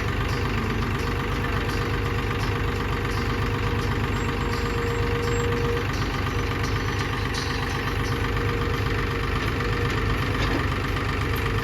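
Heavy diesel engine running steadily at idle, with a fast, even low beat.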